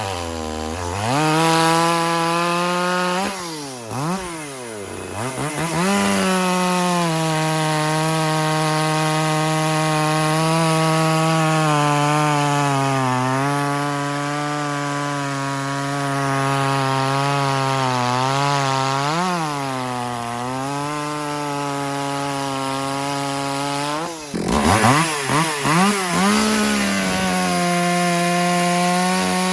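Tanaka 5601 two-stroke chainsaw running at full throttle while cutting through a log, the engine pitch dipping slightly as it bites into the wood. About 24 seconds in the engine drops off suddenly, is blipped a few times, then runs steady again near the end.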